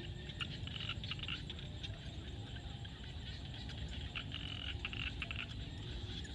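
A chorus of frogs calling in a field, with bursts of short, rapidly repeated croaks that swell about a second in and again past the middle, over a steady low rumble.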